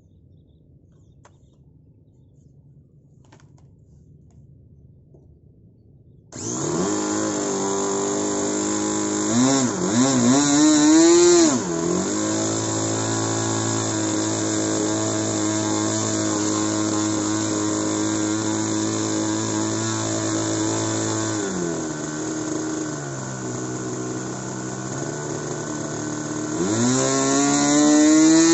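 O.S. 46 two-stroke glow (nitro) model airplane engine catching about six seconds in, revved up and down briefly, then running steadily, dropping to a lower speed about two-thirds of the way through and revving up again near the end.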